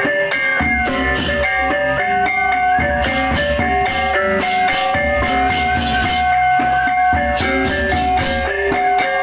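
Balinese baleganjur gamelan playing: ringing gong-chime tones over drums, with frequent clashing of cymbals.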